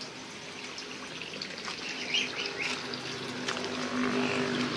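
Outdoor yard ambience: a few short bird chirps about two seconds in, with a steady low hum coming up in the second half.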